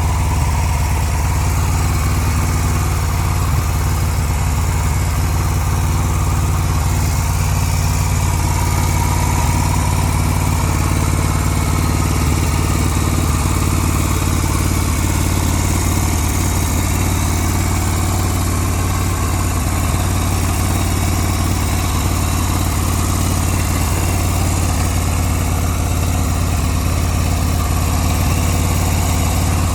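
Yamaha Renaissa motorcycle's air-cooled V-twin engine idling steadily, with no revving.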